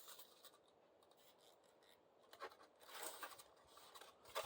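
Faint scraping and rubbing as materials are handled on a model railroad layout under construction, with a few short scratchy strokes about two to three seconds in and again near the end.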